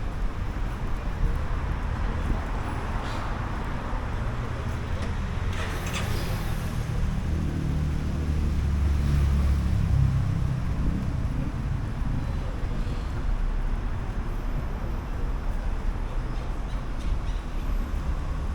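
City street ambience: a steady traffic rumble, with a vehicle passing close by about halfway through, its low rumble swelling and fading. A short hiss comes just before it.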